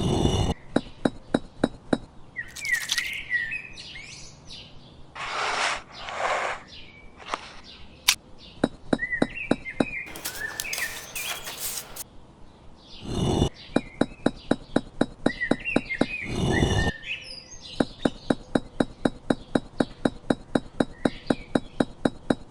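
Birds chirping, over long runs of rapid, even clicks at about five a second and a few short scraping or rushing noises.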